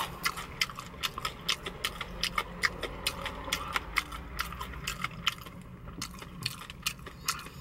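Close-miked chewing of a mouthful of crunchy Popeyes fried chicken drumstick: irregular crisp crunches, several a second.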